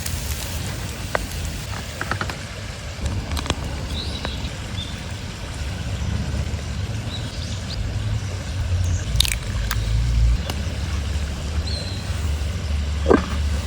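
Outdoor ambience dominated by a low rumble that swells and eases, most likely wind on the microphone. Scattered light clicks and knocks run through it, with a few faint, brief bird-like chirps.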